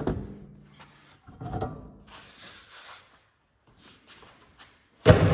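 Knocks and a scraping rub from hand work on a car's wheel and hub, with a loud clunk about five seconds in.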